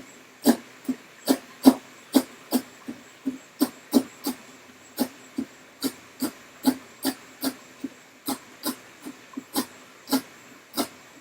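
Knife chopping on a cutting board: a steady run of sharp knocks, about two a second.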